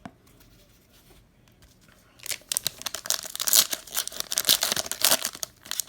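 Quiet for about two seconds, then a plastic-wrapped trading card pack being torn open: a dense run of crinkling and ripping of the wrapper.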